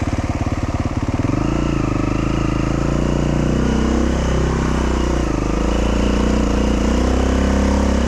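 Dual-sport motorcycle engine with a slow, even putter at first, then revving up about a second in and running steadily under throttle, its pitch rising and falling a little.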